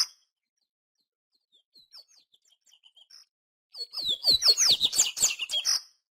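A papa-capim seedeater singing: a quick jumbled phrase of high chirps and down-slurred notes, a gap with a few faint chirps, then another loud phrase of about two seconds near the end.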